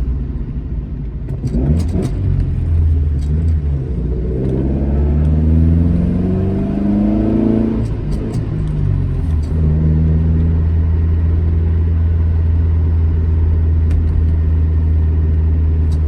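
Alfa Romeo GT1300 Junior's twin-cam four-cylinder engine driving on the road: the revs climb steadily for about four seconds, drop away sharply about halfway through, then settle into a steady drone.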